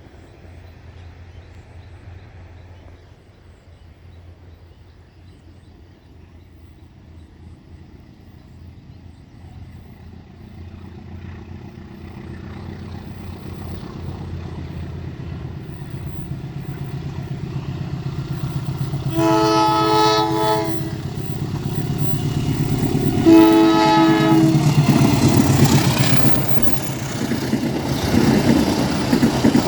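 Diesel locomotive approaching, its engine rumble growing steadily louder, sounding two horn blasts, the first about two seconds long and the second shorter, a little past the middle. Near the end it passes close, loud with engine and wheel noise.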